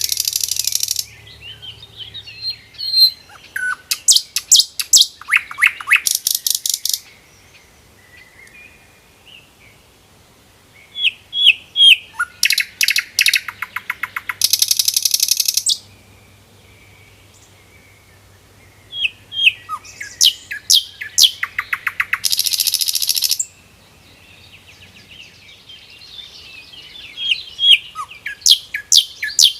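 Common nightingale singing in separate phrases a few seconds apart, each made of sharp whistled notes followed by a fast, rattling trill, with short pauses between phrases.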